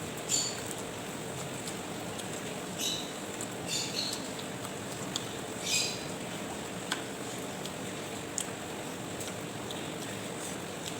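Close-miked eating sounds: chewing with mouth clicks and a few short, crisp crunchy bursts.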